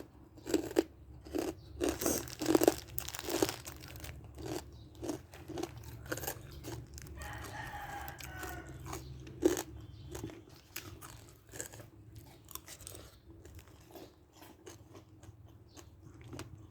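Close-up crunching and chewing of crisp food, with sharp bites coming quickly at first and thinning out later. A rooster crows in the background about seven seconds in.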